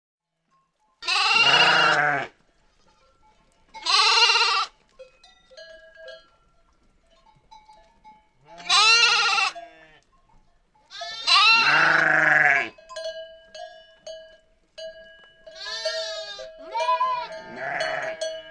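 A flock bleating, starting about a second in after silence: four loud calls about a second long, then quieter ones near the end. Small bells clink and ring between the calls.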